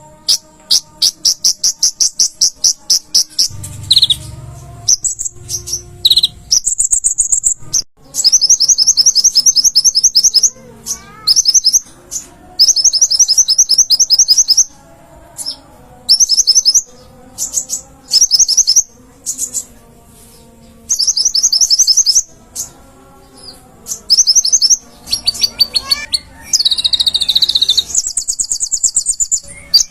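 Kolibri ninja ('konin') sunbird singing in full voice: very rapid, high trilling chatter delivered in repeated bursts of a second or two, with short pauses between them.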